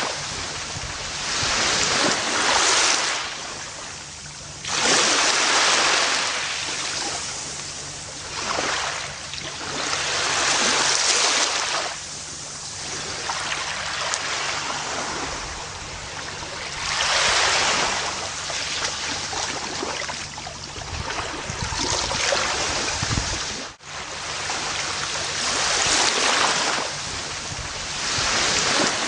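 Gentle ocean waves breaking and washing up a beach, each swell rising and fading every few seconds. There is a brief sharp drop-out about two-thirds of the way through.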